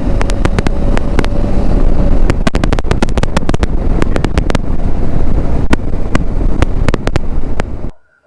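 Wind buffeting a helmet-mounted microphone (Maono mic in a foam sponge and dead cat, on a GoPro Hero 11 Media Mod with wind reduction off) on a motorcycle at about 100 km/h, with frequent sharp crackles through the wind. It cuts off suddenly near the end.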